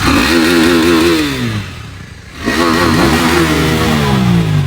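Aprilia RS 457 parallel-twin motorcycle engine revved twice through its exhaust: each rev climbs, holds briefly and falls back, with a short drop toward idle about two seconds in.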